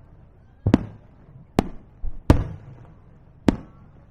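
Aerial firework shells bursting in quick succession: five sharp bangs, one of them weaker, each trailing off in a rumbling echo.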